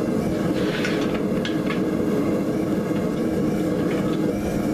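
Steady droning roar of running shop equipment, even in level throughout, with a few light metallic clinks about a second in.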